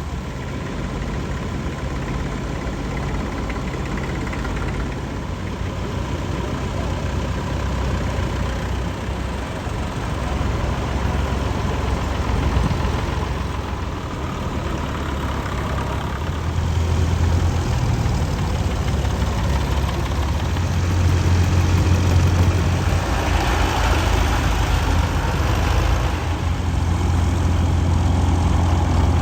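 Vintage tractor engines idling with a steady low engine note, which grows louder about two-thirds of the way through.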